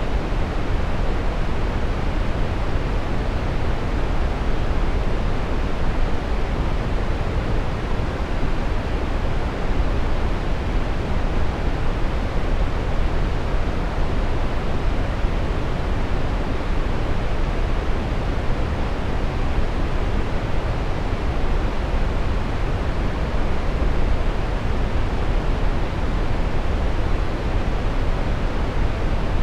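Steady brown noise: an even, unbroken rushing hiss weighted heavily toward the bass, with the highs rolled off.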